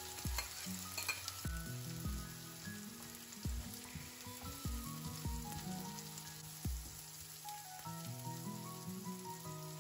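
Chopped onions and tomatoes sizzling in hot oil in a non-stick frying pan, with a wooden spatula stirring and scraping across the pan now and then. Background music plays over it.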